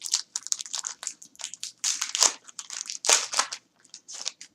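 Foil wrapper of a 2010 Topps Platinum trading-card pack crinkling and crackling as it is torn open and handled, in a quick irregular string of crackles that stops shortly before the end.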